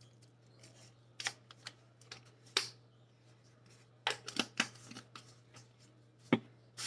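Irregular light taps and clicks from a spice shaker being shaken and tapped over a bowl of vegetables, with a sharper tap shortly after six seconds in.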